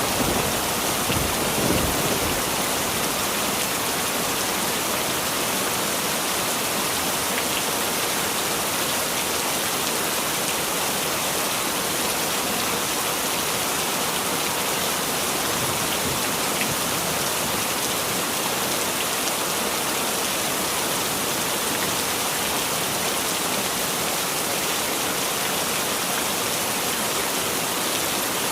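Heavy rain falling in a steady, dense hiss. The last of a thunder rumble fades out in the first two seconds or so.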